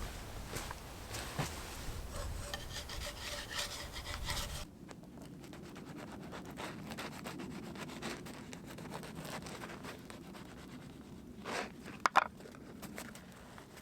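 Scratchy rubbing and scraping. It changes abruptly about four and a half seconds in to a quieter scraping, with a few sharp clicks near the end.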